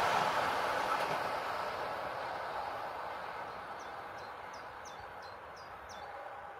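Passenger train receding down the line, the noise of its wheels on the rails dying away steadily. About three and a half seconds in, a bird gives a quick series of about seven short, high, falling chirps.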